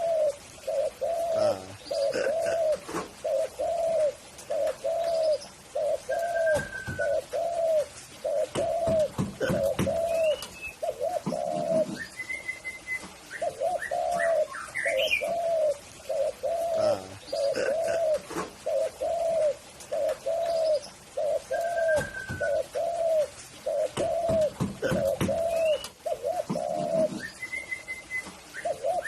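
Spotted dove (tekukur) cooing: a long run of repeated low coos, about two a second, with a short pause near the middle. Other birds add scattered short high chirps.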